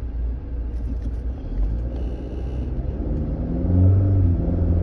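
Truck engine running loud with a low rumble, then speeding up about three seconds in as its pitch rises. The owner puts the loudness down to the truck not having been driven for a while.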